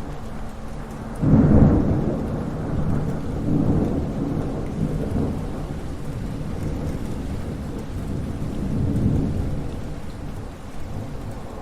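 Thunderstorm: steady rain with thunder, a sudden loud crack and rumble just over a second in that rolls on for a few seconds, and another rumble swelling and fading later.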